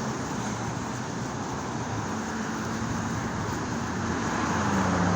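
Road traffic noise: a steady rush, with a vehicle's engine hum growing louder near the end.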